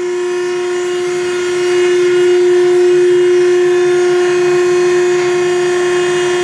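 A 10 HP hydraulic baler's motor and hydraulic pump running with a steady whine and hiss as the ram returns up after reaching maximum pressure and hitting the release valve. It gets a little louder about two seconds in.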